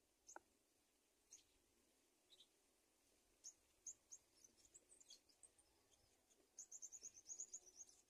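Faint, high-pitched bird chirps, scattered and short, with a quick run of about a dozen chirps near the end.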